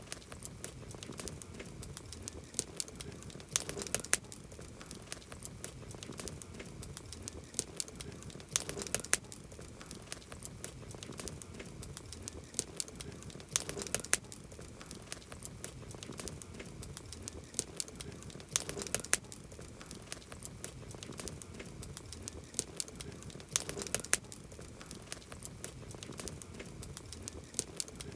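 Campfire crackling and popping steadily, with a cluster of louder pops about every five seconds.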